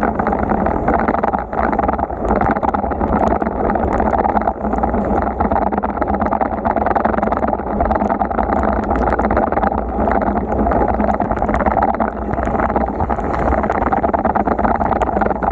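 Steady rushing noise of a bicycle ride in heavy rain: rain and wet-road spray with air rushing past, dotted with many small ticks.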